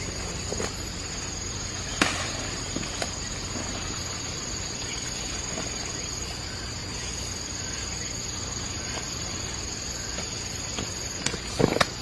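Insects droning steadily at two high pitches, over a few sharp knocks and snaps; the loudest knock comes about two seconds in, with a cluster of them near the end.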